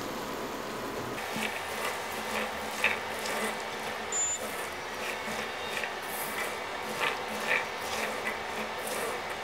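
Boiled chickpeas sizzling in oil and spice masala in a granite-coated pan while a spatula stirs them, with light scrapes and taps of the spatula against the pan.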